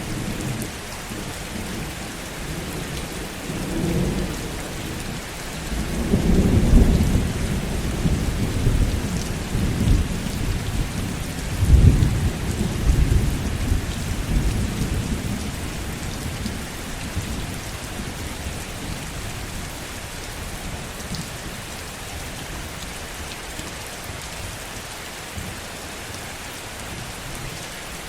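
Steady heavy rain with rolling thunder: a low rumble about four seconds in, then a longer, louder roll from about six seconds that peaks twice and dies away by about seventeen seconds, leaving only the rain.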